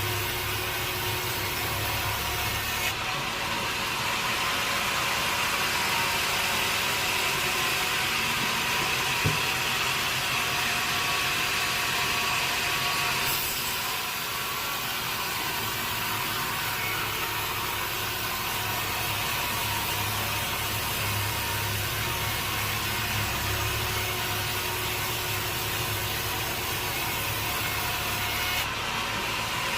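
Sawmill machinery running steadily: a motor hum under a constant hiss, with one brief knock about nine seconds in.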